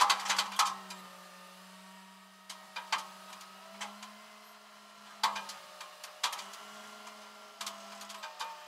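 Steady engine hum heard inside a moving vehicle's cab, with irregular clicks and rattles about once a second, loudest at the start.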